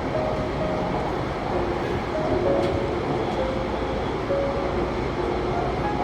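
Airport Railroad train running over the railway bridge: a steady rumble of rail and running noise, with short faint tones shifting in pitch over it.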